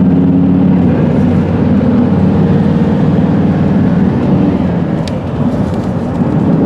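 A vehicle running: a steady, loud low rumble with a faint hum in it.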